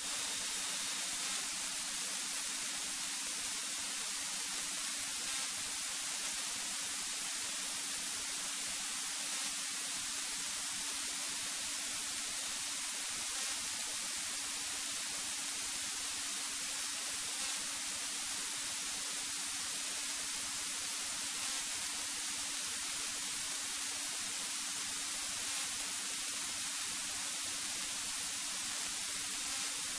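Steady static hiss with a faint steady hum underneath: the noise floor of the cockpit audio recording feed. No engine or wind sound comes through.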